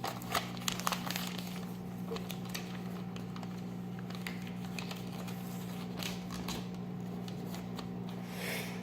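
A sheet of hole-punched notebook paper being folded and creased by hand: soft crinkles and rustles, clustered in the first couple of seconds and again near the end, over a steady low hum.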